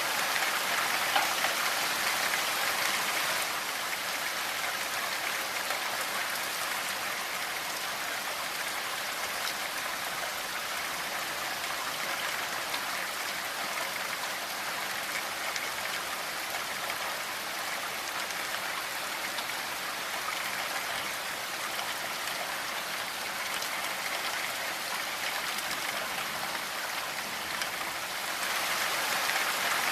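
Steady rainfall: an even hiss of many raindrops, a little louder for the first few seconds and again near the end.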